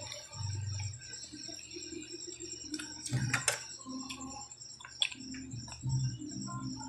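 Close-up mouth sounds of eating barbecued meat by hand: chewing and lip-smacking with a few sharp clicks. Under it, night insects chirp in a steady high pulse.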